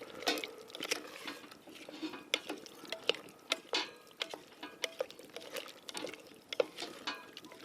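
Spoon stirring chicken and jarred curry sauce in a cooking pot, with irregular scrapes and knocks against the pot.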